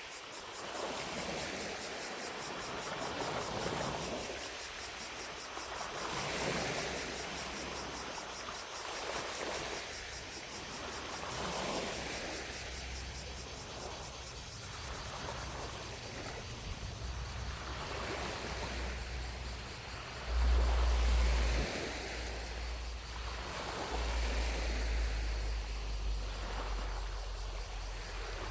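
Small lake waves lapping at the shore in soft washes every couple of seconds, under a steady high trill of distant cicadas. A low rumble builds in the second half and is loudest for about a second two-thirds of the way through.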